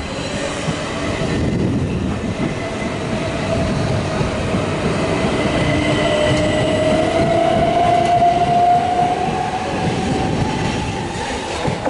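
Southern Class 377 Electrostar electric multiple unit pulling away from a standstill. Its traction motors give a whine that rises slowly in pitch as it gathers speed, over a low rumble of wheels, growing louder towards the last few seconds.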